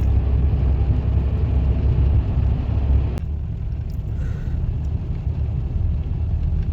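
A diesel vehicle running, giving a steady low rumble, with one sharp click about three seconds in.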